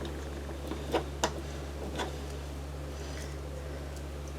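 Plastic Lego bricks clicking as they are handled and pressed together: two light clicks about a second in and one more at two seconds, over a steady low hum.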